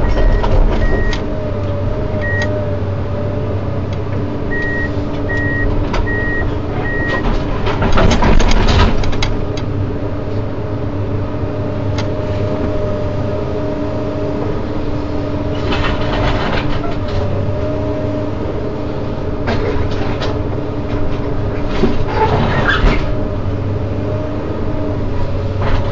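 Komatsu PC210 hydraulic excavator running steadily under load, its diesel engine humming throughout. A high-pitched warning beep sounds in short runs during the first seven seconds, and three louder rattling bursts come about 8, 16 and 22 seconds in.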